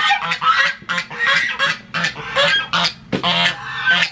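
Farm ducks and geese crowding in and calling over each other for food: short, loud calls about three a second. The loudest comes a little after three seconds in.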